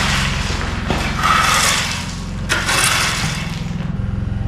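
A motor running steadily, with three rough bursts of scraping noise over it in the first three seconds.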